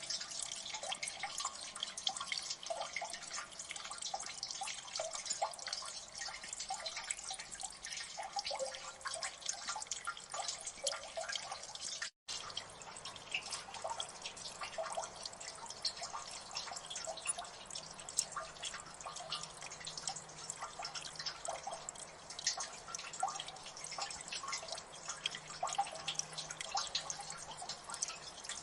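Water dripping in a gully: many drops falling irregularly into water, quick clicks and small plinks over a soft, steady trickle. The sound drops out for a split second partway through.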